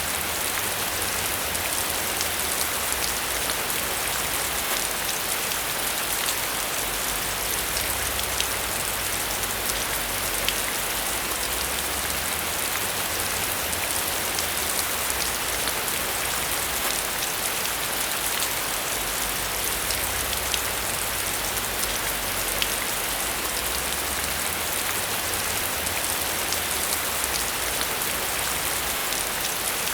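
Steady rain falling on a surface, a dense even patter of many small drops with a faint low rumble beneath.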